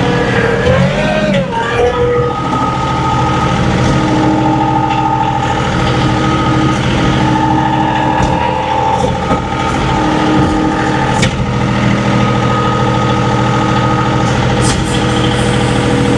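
John Deere 2038R compact tractor's three-cylinder diesel engine running steadily under work, with a steady whine from the drive over it. The whine's pitch swells and dips once in the first couple of seconds.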